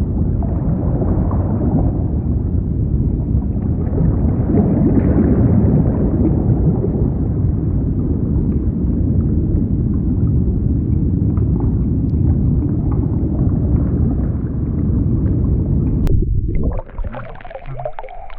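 Muffled rumbling and gurgling of water picked up by a camera held underwater in a shallow pond, loud and dull with almost no high sound. It breaks off shortly before the end.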